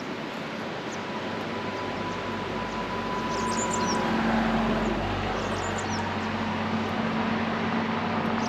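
Birds chirping in short bursts over a steady rushing background, with a low engine hum that swells about halfway through and carries on.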